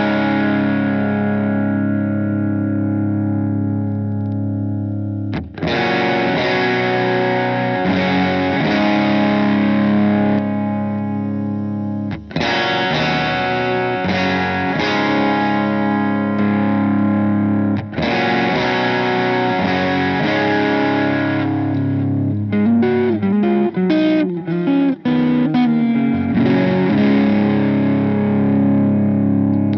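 Electric guitar played through a Donner Dumbal Drive overdrive pedal, with a driven tone. Sustained chords are struck and left to ring, then re-struck every few seconds, with a quicker picked run of short chord hits near the end.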